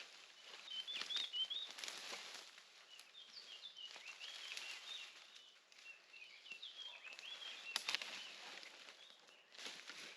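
Small birds singing in quick, chirpy twittering phrases, over an irregular rustling and crackling of dry, crunchy undergrowth being cleared, with a sharp snap about eight seconds in.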